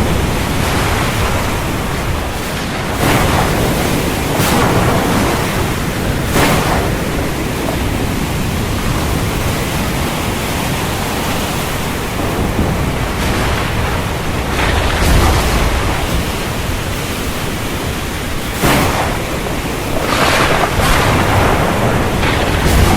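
Stormy wind and ocean surf: a steady rushing noise with brief louder surges every few seconds, growing louder near the end.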